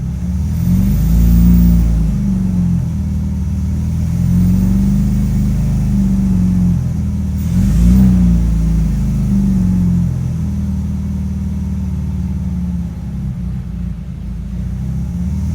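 Lamborghini Murciélago V12 running just after a cold start, its revs rising and falling several times. It will not settle to an idle, which the owner puts down to a limp-mode Alpha-N ECU.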